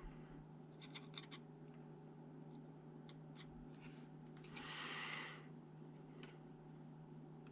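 Faint small clicks, then one brief scratching rub about five seconds in, over a steady low electrical hum: small parts being handled during a laptop teardown.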